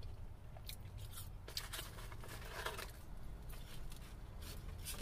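A person chewing French fries close to the microphone: soft wet mouth clicks scattered throughout, with a denser run of chewing noise about two seconds in, over a faint low hum.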